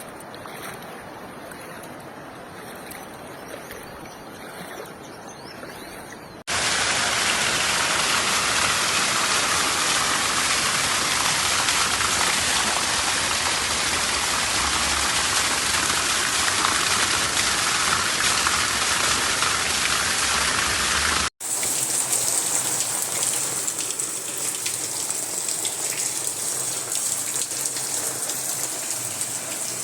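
Steady noise of running water or falling rain, with no other distinct events. It jumps abruptly in character twice, about six and about twenty-one seconds in, and is loudest in the middle stretch.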